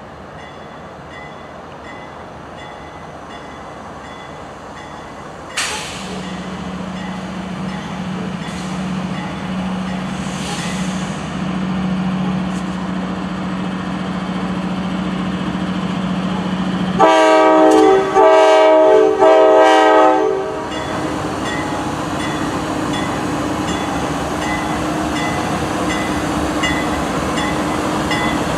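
Diesel freight locomotives approaching, their engine drone growing steadily louder, then the locomotive's air horn sounding four blasts about two-thirds of the way through before the engines carry on closer and louder.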